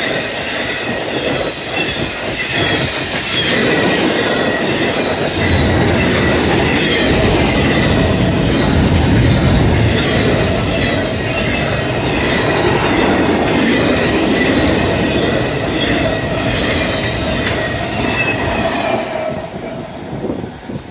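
CSX intermodal freight train's cars rolling past close by: a loud steady rumble of steel wheels on rail with regular clacks and a thin high squeal running over it. It falls quieter near the end.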